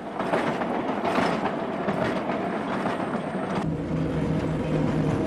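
Freight train on the move: wheels and wagons rattling and clattering over the rails. About three and a half seconds in, the sound changes suddenly to the steady hum of the diesel locomotive's engine.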